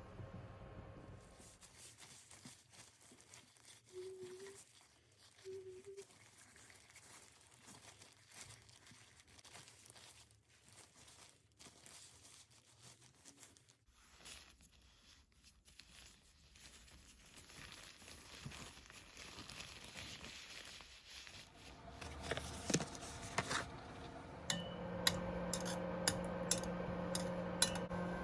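Soft wet handling noises of seitan dough being worked and pulled apart, with scattered clicks. Near the end the sounds get louder, with sharp ticks over a steady low hum.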